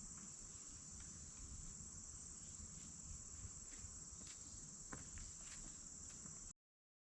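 Faint, steady high-pitched chorus of insects chirring, with a few faint ticks; the sound cuts off abruptly about six and a half seconds in.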